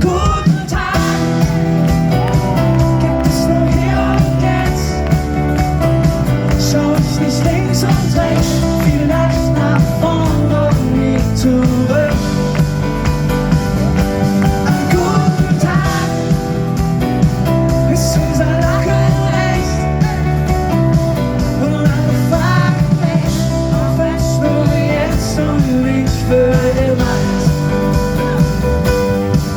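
Live acoustic pop song played by a band: guitar and bass over a steady groove, with singing at times.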